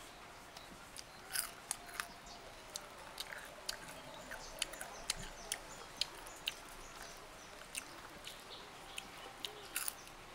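Close-up crunching of deep-fried crickets being broken apart by hand and chewed: an irregular string of crisp snaps and crackles.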